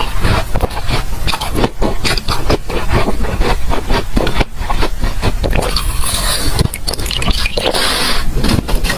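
Close-up crunching and chewing of ice frozen in a water bottle: a dense run of crackly bites and scraping.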